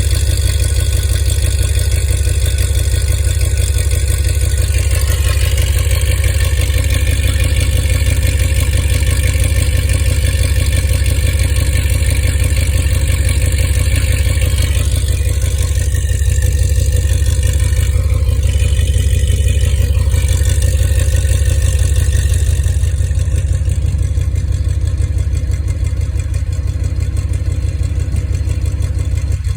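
Dodge Ram 2500's 5.7 Hemi V8 running steadily through long-tube headers and a tractor muffler, with a misfire from a bad coil pack in its exhaust note. It grows a little quieter near the end.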